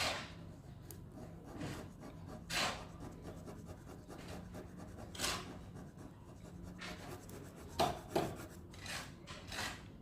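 Ballpoint pen scratching across paper in separate shading strokes, a few seconds apart at first and then several in quick succession near the end, over a faint steady low hum.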